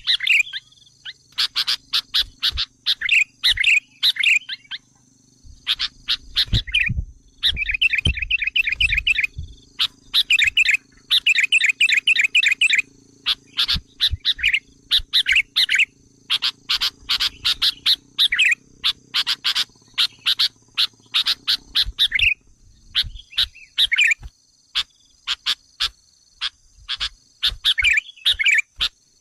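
Sooty-headed bulbul (kutilang) calls in rapid runs of sharp, chattering notes and quick trills, with short pauses between runs. This is the bulbul's agitated lure call, used to provoke wild bulbuls.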